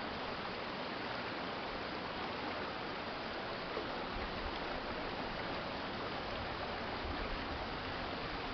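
Steady rush of shallow stream water flowing along a city creek, an even, unbroken hiss.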